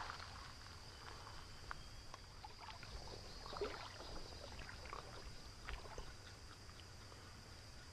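Water sloshing and splashing in scattered bursts in a shallow creek, over a steady high-pitched buzz.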